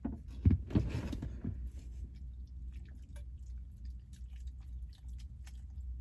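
A person eating a bowl of ramen noodles: a louder cluster of mouth sounds in the first second and a half, then quiet chewing with many small clicks.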